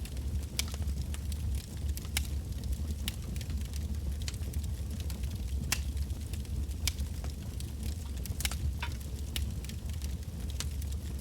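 Wood fire crackling, with sharp irregular pops a few times a second over a steady low rumble of the flames.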